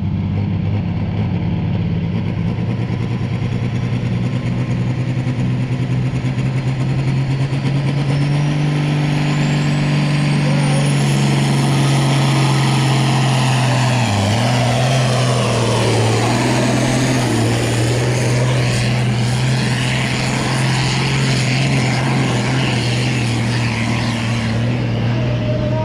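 Competition pulling tractor's diesel engine running flat out on a pull down the track, its note held steady with a brief dip about fourteen seconds in. A high whine rises in pitch over it from about seven to eleven seconds in.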